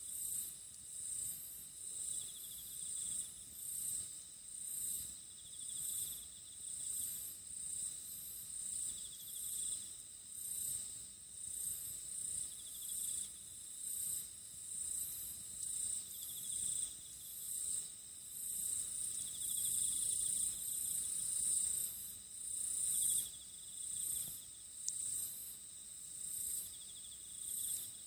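A chorus of insects, crickets or similar, shrilling at a high pitch in a steady pulsing rhythm of about one swell a second.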